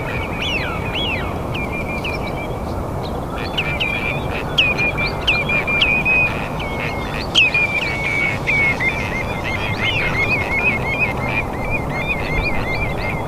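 Songbird singing in a night-time forest: a long run of quick, high chirping notes, with a short pause about three seconds in, over a steady low rushing background.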